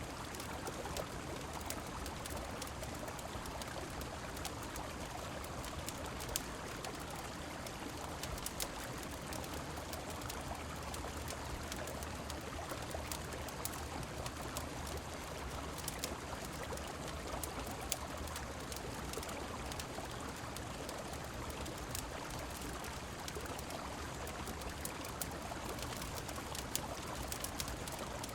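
A river running steadily with rain, an even rushing, with scattered sharp crackles from a wood fire popping through it every second or two.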